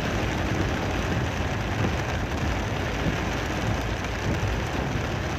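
Heavy rain pouring down in a steady rush, mixed with the continuous road and engine noise of a vehicle driving through it.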